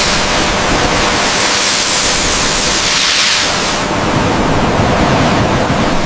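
A loud, steady hissing rush, brightest for the first four seconds or so and then slightly duller.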